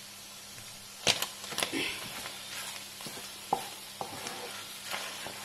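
Goat lung pieces and masala sizzling as they dry-fry in oil in a pan, with no water left. A spatula stirs them, knocking sharply against the pan a few times.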